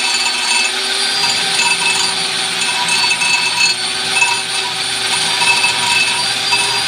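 Power tool running steadily as a brake drum is machined, a continuous grinding noise with a few steady high whining tones.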